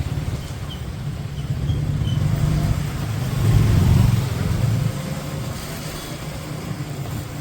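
Motorcycle engine running steadily while riding, a low drone that swells louder for about a second near the middle.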